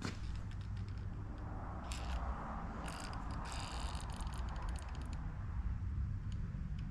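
Scattered light clicks and scraping from engine parts being handled and fitted, with a cluster of quick clicks about three seconds in, over a steady low hum.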